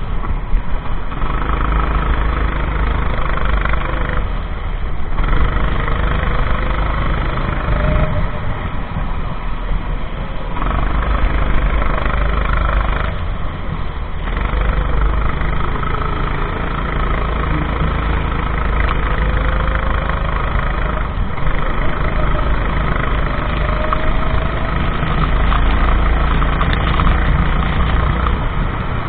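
Racing kart engine running hard through a lap, with brief throttle lifts every few seconds where the low engine note drops away and then comes back.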